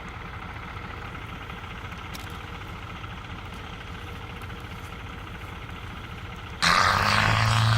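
Vehicle engine running steadily at idle. About six and a half seconds in, a much louder engine drone with hiss starts abruptly.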